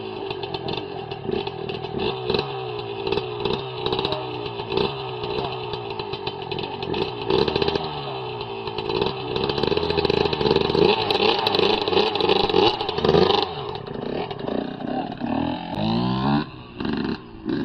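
Small motorcycle engine running and revving, its pitch rising and falling repeatedly, with the revs swinging more widely near the end.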